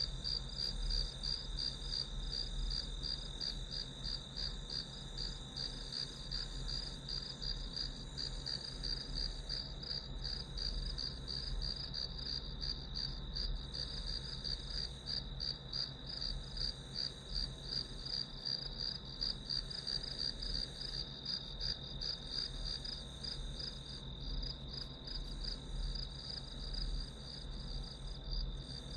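Crickets and other grass insects chirping in a steady, high, rapidly pulsing chorus, with a low steady hum underneath.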